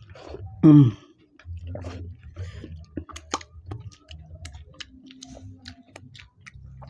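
Close-up mouth sounds of people eating by hand: wet chewing, lip smacking and finger-licking smacks, with many sharp clicks crowded into the second half. About a second in, a short, loud vocal sound with falling pitch stands out above the rest.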